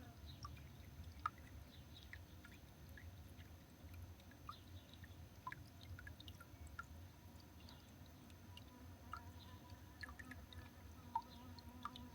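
Near silence of outdoor ambience: a low steady rumble with scattered soft ticks and clicks, and a faint steady tone in the last few seconds.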